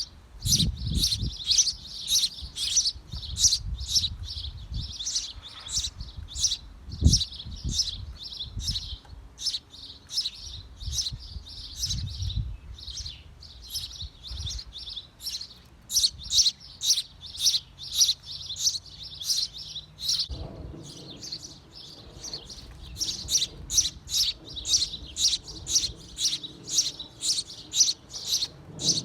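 Small birds in a birdhouse chirping over and over, short high chirps about two or three a second without a break. Low thumps and rustling come through in the first half.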